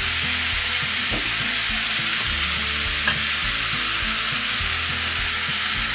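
Pulled chicken frying in a stainless steel pan: a steady sizzle, with a couple of faint clicks of the spatula against the pan.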